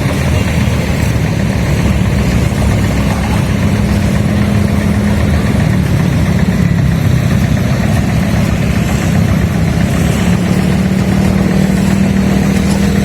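Small engine of concrete-site machinery running steadily at an even speed, a constant low-pitched hum with no breaks.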